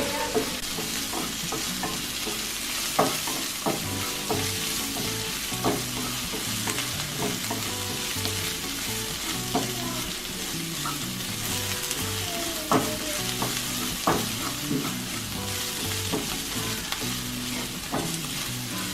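Crushed shallots, garlic and curry leaves sizzling steadily in coconut oil in a pan as they are stirred and sautéed, with the spoon knocking against the pan every second or two.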